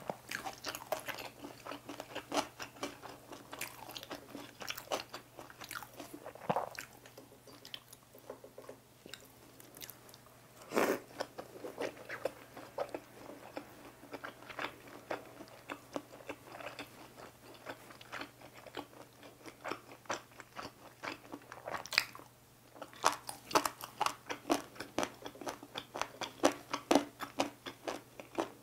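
Close-up chewing and biting of crunchy food, cucumber kimbap and seasoned dried radish strips, heard through a clip-on microphone: many quick crisp crunches and wet mouth clicks, thickest at the start and again near the end, with a quieter stretch in between.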